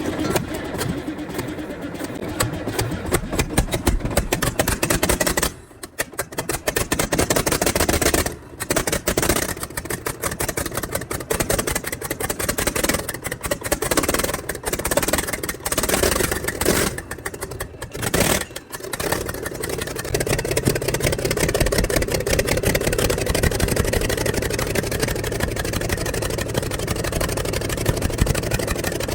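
Rebuilt Komatsu D155 six-cylinder diesel engine running, with a few short dips in the first twenty seconds, then running steadily.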